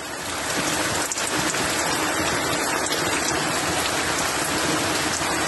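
Steady rain falling, an even dense hiss that swells a little in the first second and then holds.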